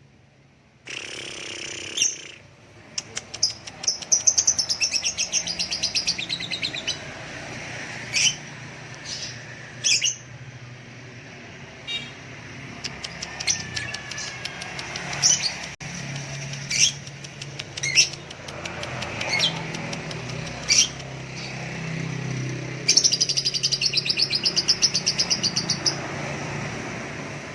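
Caged songbirds singing: fast, high rattling trills and sharp repeated chirps, with a faint low rumble underneath.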